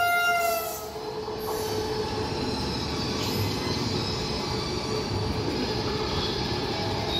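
Diesel multiple-unit passenger train sounding its horn, which ends with a slight drop in pitch in the first second. Then comes the steady rumble of the train running away down the line.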